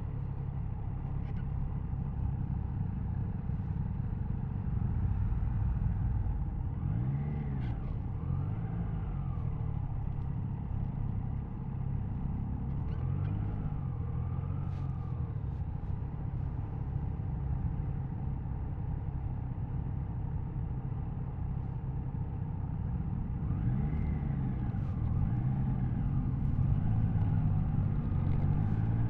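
Triumph Tiger Sport 660's 660 cc inline three-cylinder engine and exhaust under way, heard from the rider's seat, revs swelling and easing a little as the throttle is rolled on and off. Near the end the revs climb as the bike accelerates.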